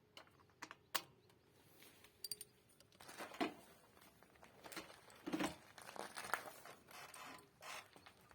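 Light metallic clicks and clinks of small parts and tools being handled, sparse at first. From about three seconds in they give way to a busier stretch of knocks and rustling with a few louder thuds.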